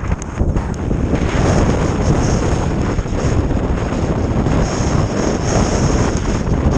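Strong wind buffeting the microphone in a snowstorm: a steady, loud rush heaviest in the low end, with no break.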